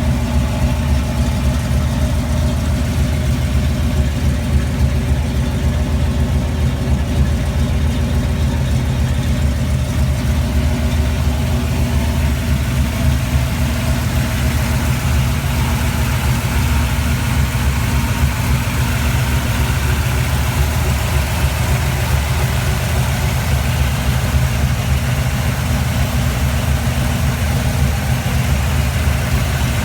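1980 Jeep CJ7 engine idling steadily, with no revving.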